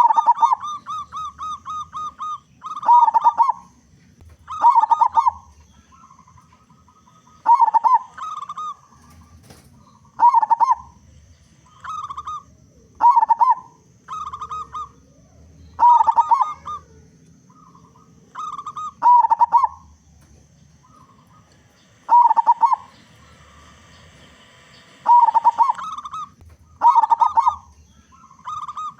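Local zebra dove (perkutut) singing in its 'big voice' style. The short cooing phrases repeat every two to three seconds, each a quick run of notes ending on a loud coo. Near the start comes a longer rapid string of about a dozen short notes.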